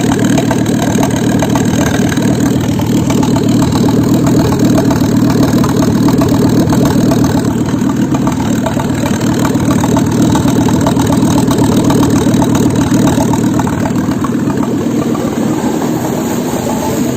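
Volvo B5204T9 2.0-litre turbocharged inline-five petrol engine idling steadily on an engine test stand during a running check.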